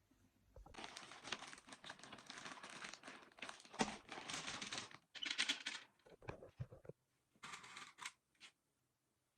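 Crinkling and tearing by hand, one long stretch of about four seconds followed by two short bursts.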